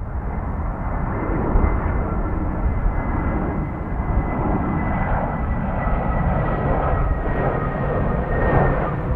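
Jet airliner passing close by, its engines giving a loud, steady low rumble with a high whine on top that drifts slightly down in pitch. The noise swells in suddenly at the start and stays loud throughout.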